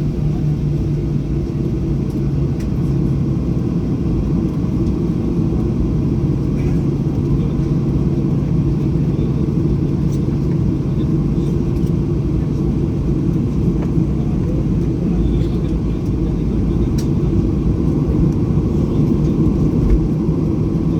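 Boeing 737-800's CFM56-7B engines running at taxi power, heard inside the cabin as a steady low rumble with a constant hum.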